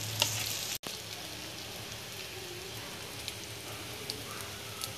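Egg-soaked bread slices frying in oil in a frying pan: a steady sizzle with a few faint crackles.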